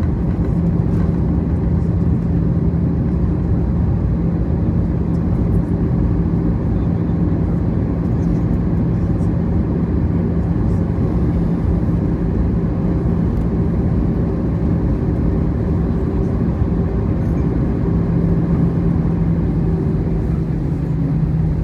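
Steady cabin rumble of an Airbus A321-211 with its CFM56 engines at low power, heard from inside the cabin. A constant low hum sits over an even roar, with a few faint ticks.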